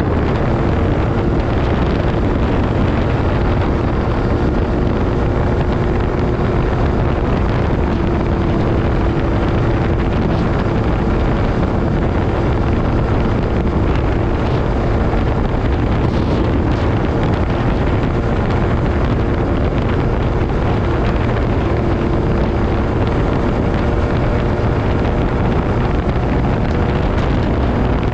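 MV Agusta Brutale 800RR's three-cylinder engine running at a steady cruise through its SC Project exhaust, with heavy wind rushing over the microphone.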